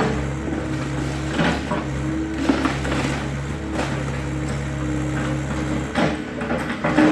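Excavator's diesel engine running steadily under irregular crunches and knocks as the garage structure is broken up. The engine hum drops back about six seconds in, just before another crash.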